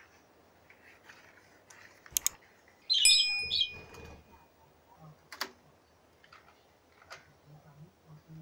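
A bird chirps loudly for about half a second, starting abruptly about three seconds in. Around it there are only a few light clicks over a faint background.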